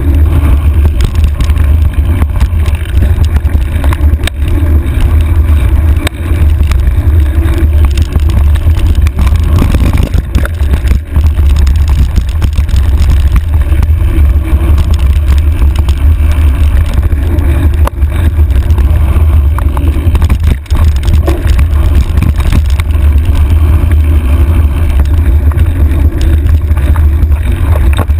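Loud, steady low rumble of riding noise on a handlebar-mounted camera, with scattered knocks and rattles from the bars jolting over rough trail.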